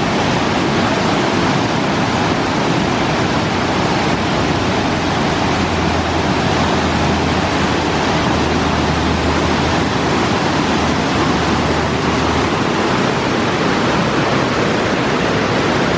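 Waterfall: a steady rush of falling water. A low rumble joins in for several seconds in the middle.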